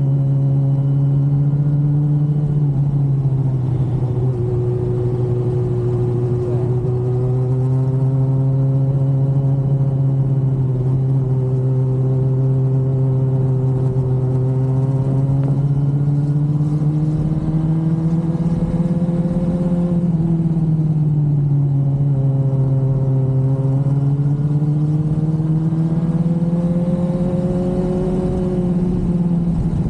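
Yamaha R1 sport bike's inline-four engine running while riding at a fairly steady throttle. Its pitch drifts slowly up and down, dipping about three seconds in, again around two-thirds of the way through, and once more near the end.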